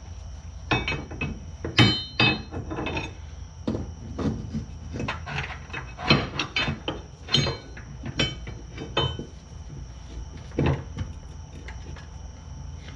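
Irregular metallic clanks and knocks, some with a brief ring, as car suspension and axle parts are handled and slipped into place by hand.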